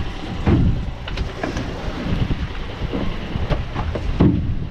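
Sailboat's engine running at idle under a steady low rumble of wind on the microphone, with scattered knocks and thuds.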